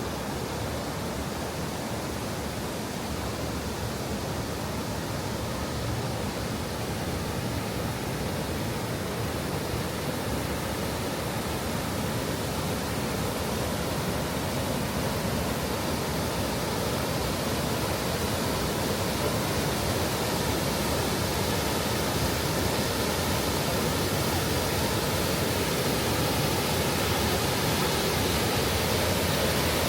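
Rushing water of Cheonggyecheon Stream, a steady hiss that grows gradually louder.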